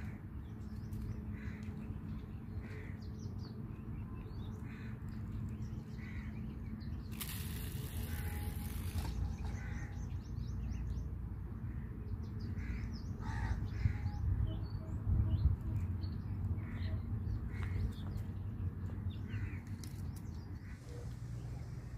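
Birds calling again and again, in short scattered calls, over a steady low rumble. A hiss of about two seconds comes about seven seconds in.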